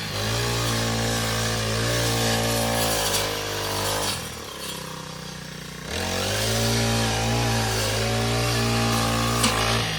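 A small engine runs steadily under load, with its pitch wavering a little. About four seconds in it drops away for roughly two seconds, then picks up again.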